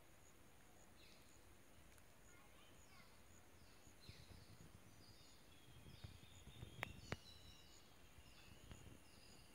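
Faint garden ambience: a bird calling again and again with short falling chirps, over a steady high hiss. Two sharp clicks come close together about two-thirds of the way through.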